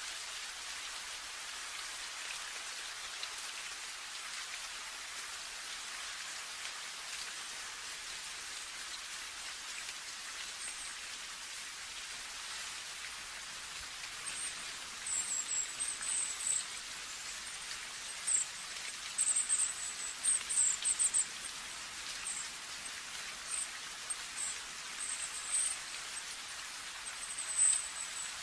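Steady rain falling, an even hiss of drops on a surface. From about halfway through, clusters of short high-pitched chirps sound over it.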